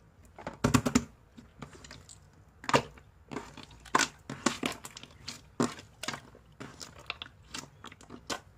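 Clear slime packed with crunchy plastic bits being squeezed and pressed by hand, giving irregular sticky pops and crackles; the loudest burst of pops comes about a second in.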